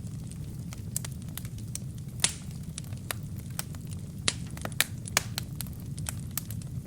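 Burning wood crackling in a fireplace: irregular sharp pops and snaps over a steady low rumble of the flames. The loudest pops come about two seconds in and twice around five seconds in.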